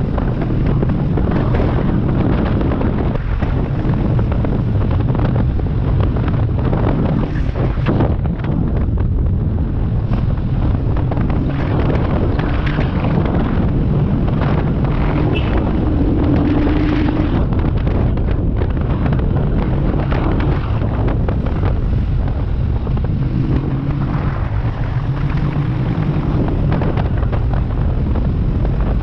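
Wind buffeting the microphone over the steady running of a Royal Enfield 350's single-cylinder engine while the motorcycle is ridden along.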